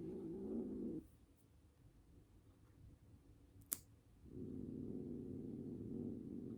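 Angry cat growling low and steadily. The growl stops about a second in, a single sharp click comes near the middle, and the growl starts again for about two seconds.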